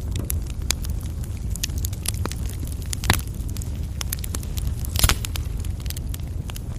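Coal fire burning in a fireplace: a steady low rumble of flames with scattered sharp crackles, and two louder pops about three and five seconds in.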